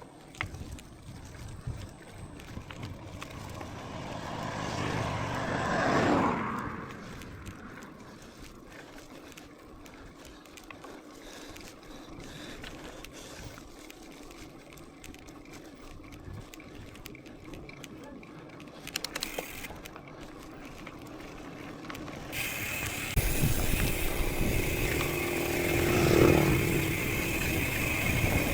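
Mountain bike rolling along with tyre and drivetrain noise. A motor vehicle swells past about six seconds in, its pitch dropping as it goes by. Near the end the rolling gets louder and rougher, with an engine again rising around the last few seconds.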